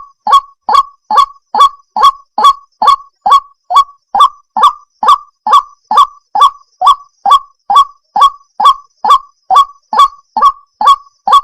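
White-breasted waterhen (ruak-ruak) giving its harsh croaking call, short loud notes repeated evenly about two and a half times a second.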